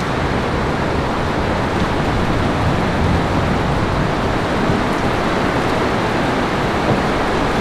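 Steady loud rush of falling water, unbroken throughout.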